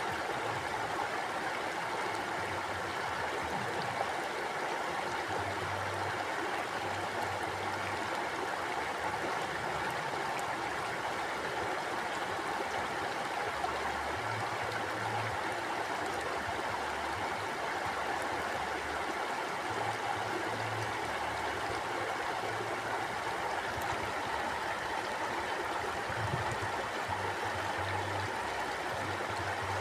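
Stream water flowing steadily over rocks, an even rushing and burbling with no pauses.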